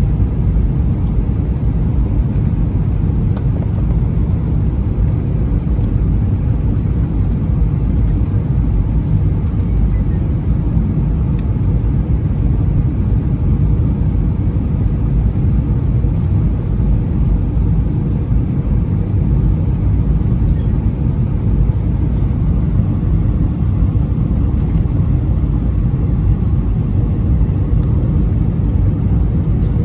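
Steady low rumble of cabin noise inside an Airbus A320-214: its CFM56 engines and the airflow over the fuselage, heard from a window seat, holding even throughout.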